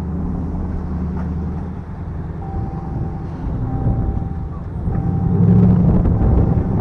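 Car engine running with road rumble; it gets louder about five seconds in. From about two and a half seconds in, a short beep repeats about once a second.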